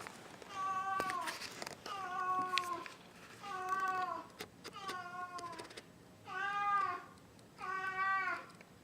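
An elderly house cat giving a string of about six drawn-out, wavering meows, each under a second long with short pauses between. It is the yowling call she makes while carrying a shoe or boot as prey.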